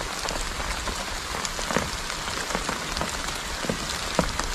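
Light rain falling on leaves and tall grass: a steady patter with scattered sharper drops, one louder tap a little after four seconds in.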